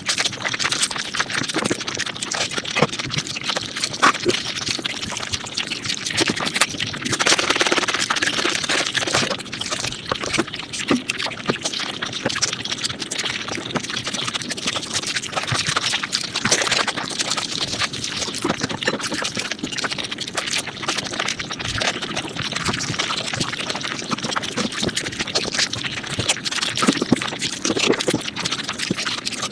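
Close-miked mukbang eating sounds (chewing, crunching and slurping) played back sped up, giving a fast, dense stream of crackles and clicks.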